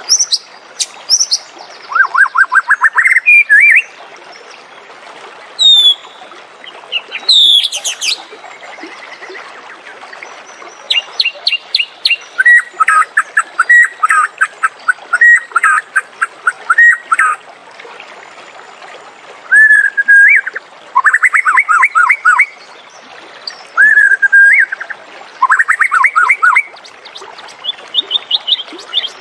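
White-rumped shama singing: phrases of rapid rising trills and clear whistled notes, repeated with short pauses between them.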